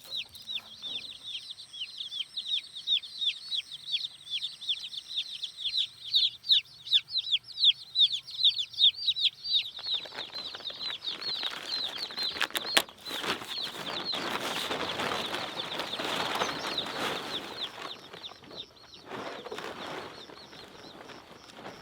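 Newly hatched chicks peeping: a dense chorus of short, high, falling peeps, several a second. About halfway in, a steady rushing noise joins with a few sharp clicks, and it fades near the end.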